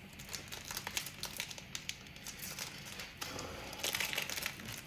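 Trading card booster pack wrapper being torn open and crinkled by hand: a run of quick crackles, denser and louder near the end.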